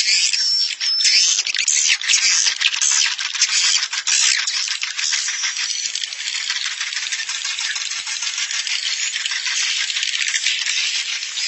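Edible-nest swiftlets chattering: a dense run of rapid, rattling clicky chirps, with a few short high whistles about half a second to a second in. This is a swiftlet-house roosting lure call ('suara inap'), played to draw swiftlets in to roost.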